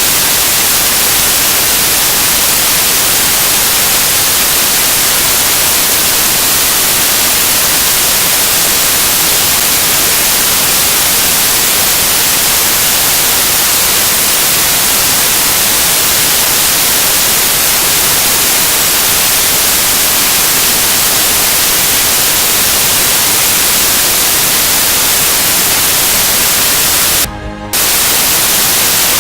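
Loud, steady static hiss like white noise, with no tones or voices in it. It breaks off briefly in a short dropout a little before the end.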